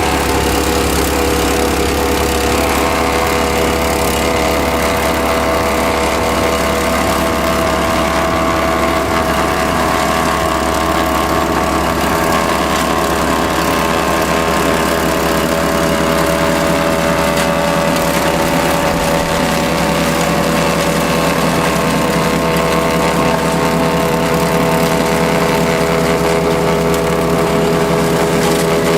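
Kubota L5740 tractor's diesel engine running steadily at a constant speed.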